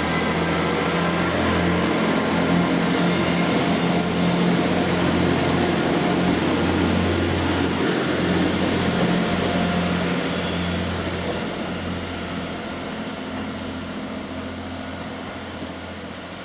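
Diesel train running with a steady low engine drone and thin, high-pitched squeals from the wheels, fading away over the last few seconds as it draws off.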